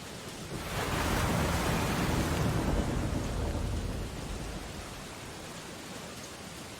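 Steady rain on window glass with a loud, deep surge of storm noise that builds just under a second in and fades away over about three seconds.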